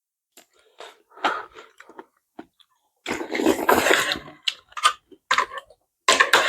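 Eating noises from someone eating spicy curry noodles: a series of short chewing and mouth sounds, with one longer, louder slurp about three seconds in.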